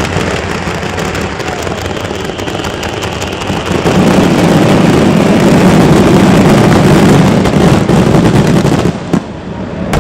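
Fireworks finale barrage: a dense, continuous run of overlapping booms and crackling, growing much louder about four seconds in and easing off near the end.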